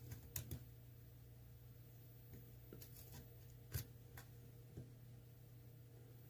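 A few faint, scattered clicks of a lock pick working the pins of an ASSA Twin pin-tumbler cylinder under tension, over a low steady hum.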